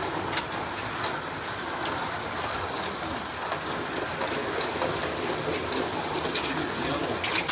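Several Carrera Digital 1:32 slot cars running on the plastic track: a steady whirring rattle of motors and wheels, with a few sharp clicks.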